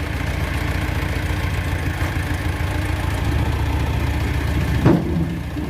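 Mitsubishi Canter dump truck's diesel engine idling steadily, with a single sharp knock a little before the end.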